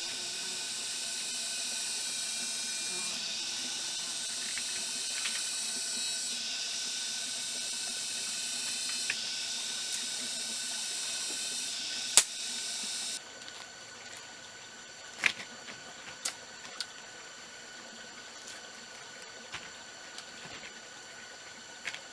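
A steady hiss that cuts off abruptly about 13 seconds in. It leaves a quieter background with faint steady high tones and a few sharp clicks.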